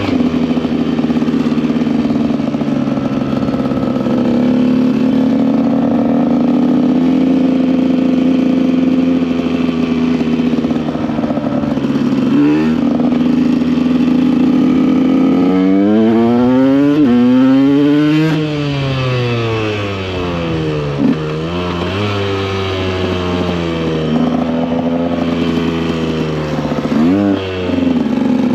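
KTM EXC 125's two-stroke single-cylinder engine running at steady cruising revs. About halfway through, the revs climb sharply and then fall away. It settles steady again, then dips and picks up quickly near the end.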